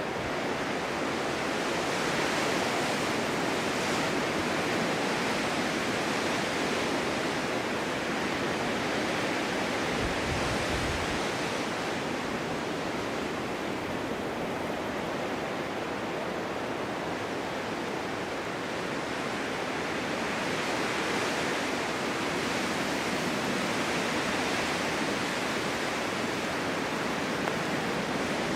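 Snowstorm wind blowing steadily, swelling and easing slowly in long gusts, with a brief low buffet about ten seconds in.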